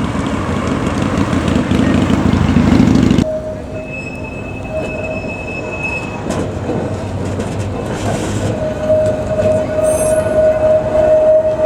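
Heritage tram on street track: a loud rumbling run that breaks off abruptly about three seconds in, then steel wheels squealing on the rails with a steady high tone that grows louder over the last few seconds.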